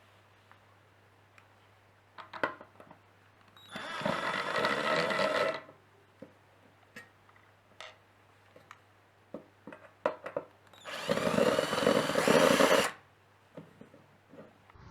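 A small electric motor whirring in two short runs of about two seconds each, with a few light clicks and knocks in between.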